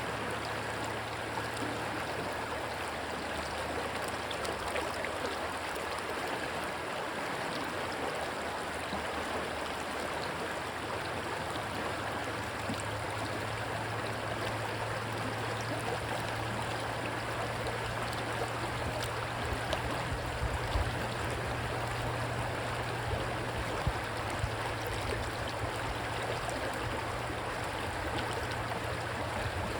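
Stream water rushing steadily. A low steady hum grows stronger about twelve seconds in, and a few low rumbles come near two-thirds of the way through.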